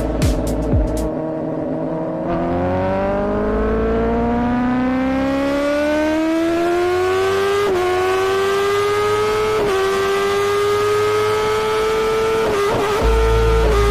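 Sport motorcycle engine running hard, its pitch climbing steadily for several seconds as it accelerates. It then holds a high steady note, with two brief dips in pitch.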